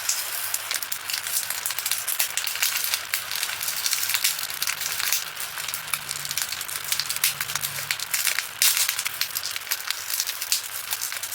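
Diamond painting drills, tiny resin rhinestones, being poured and shaken from a small plastic bag into a storage container: a dense, continuous patter of tiny clicks mixed with plastic bag crinkling.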